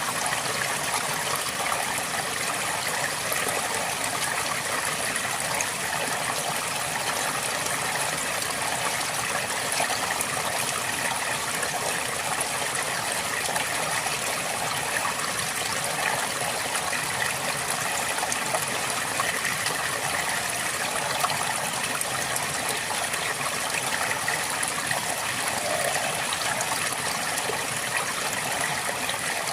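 Flowing river water: a steady, unbroken rush of moving water.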